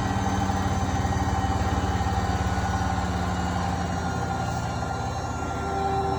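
Washing machine running: a steady motor hum with a higher whine over it, without pauses.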